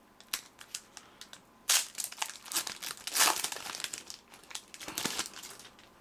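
A trading-card pack wrapper being crinkled and torn open by hand: a few light ticks, then a dense run of crinkling and tearing for about four seconds, loudest in the middle.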